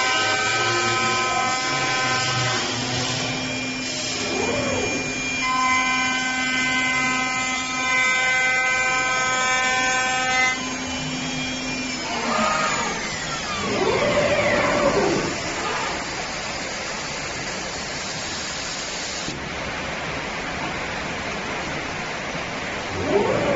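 5-axis CNC wood lathe machining a wooden chair part: a steady high spindle whine with several pitches for the first ten seconds or so, then mostly an even rushing cutting noise with a few rising-and-falling whooshes.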